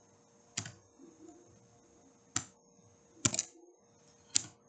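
Computer keyboard keys pressed one at a time as G-code is typed in: four separate clicks a second or so apart, over a faint steady hum.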